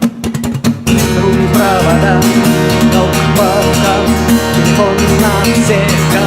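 Instrumental song music: strummed acoustic guitar chords, joined about a second in by a fuller band sound with bass and a wavering lead melody.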